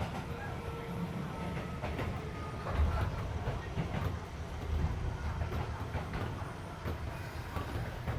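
Running noise heard from inside a Keisei 3400 series railcar: a steady low rumble of the wheels on the track with irregular clacks from rail joints, plus the hum of the car's air conditioning.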